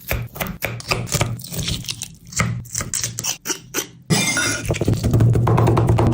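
Rapid crisp crackles and clinks of food being prepared. A louder, denser layer with a steady low beat comes in about four seconds in.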